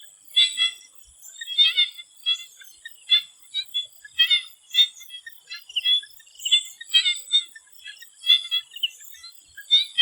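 Swamp frogs calling: short, repeated croaking calls coming every half second to a second. A steady, thin high-pitched whine runs underneath.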